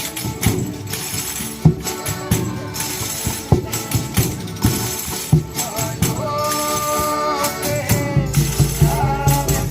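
Folia de Reis folk music: tambourines jingling and a drum beating a steady rhythm, with long held notes sounding over them, the longest a bit past halfway.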